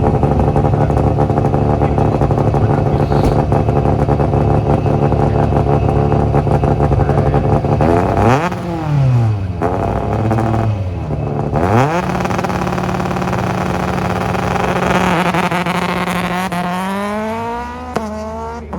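Rally car engine held at steady revs, then dropping and rising in pitch a couple of times about eight seconds in. Near the end the revs climb sharply as the car launches away, with a gear change just before the sound starts to fade.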